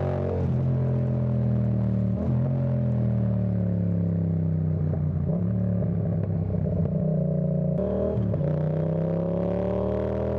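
Yamaha Tracer 7's 689 cc CP2 parallel-twin engine under way, its note falling and rising with the throttle, with a sudden change in pitch about eight seconds in.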